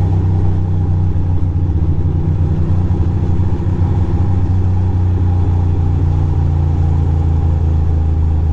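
Ducati Monster 620's air-cooled V-twin engine running steadily at low revs, close to the microphone.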